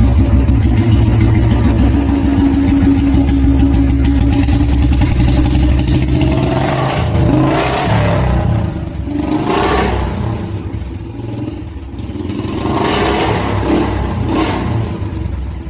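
Royal Enfield Bullet Standard 350 single-cylinder engine running loudly through an aftermarket long Punjab silencer. It idles steadily, then is revved with four throttle blips in the second half.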